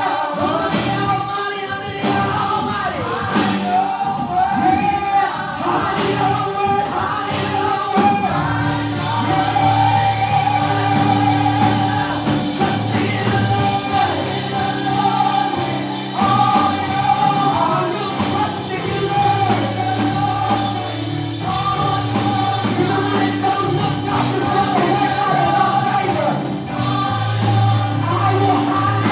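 Live gospel worship music: a choir and worship team singing over a full band with bass, keys and drums.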